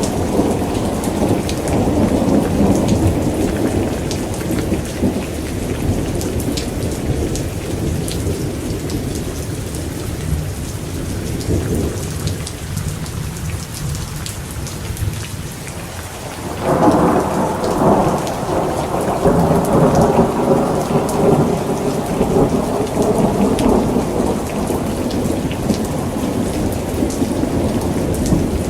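Thunderstorm: steady rain falling, with thunder rumbling in the first few seconds. About two-thirds of the way through comes a sudden loud thunderclap that rolls on for several seconds.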